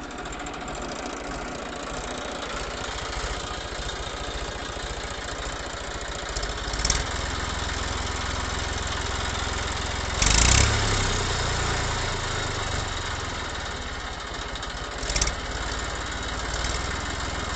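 Small motor of a DIY model tractor running steadily, with a louder surge about ten seconds in and two brief bumps around it.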